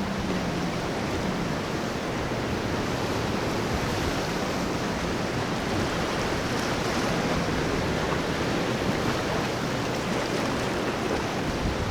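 Steady wash of breaking surf and wind noise at a rough ocean inlet. A faint low engine hum fades out in the first second.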